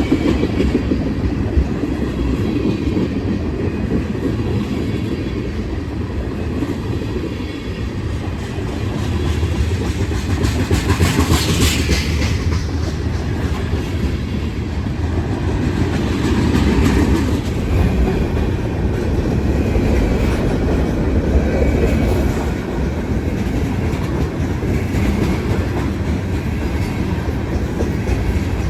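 A train rolling past, its steel wheels clacking steadily over the rail joints, with a brief brighter rattle about eleven seconds in.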